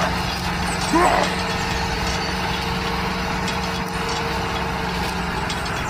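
Mini tractor engine running with a steady, even drone that holds one pitch, with short voice-like sounds at the start and about a second in.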